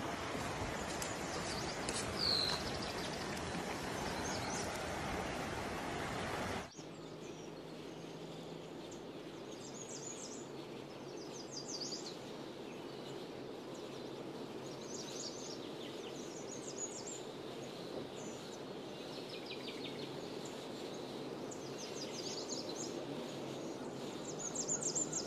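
Outdoor ambience: a steady rushing noise cuts off abruptly about seven seconds in, leaving a quieter background where small birds chirp and sing repeatedly.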